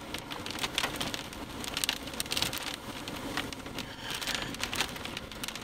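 Rain falling, with many irregular, sharp drop hits on a hard surface close by.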